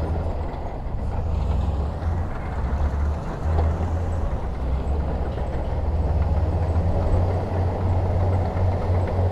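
Heavy diesel earth-moving machinery running steadily, a deep engine rumble with noisy mechanical clatter above it.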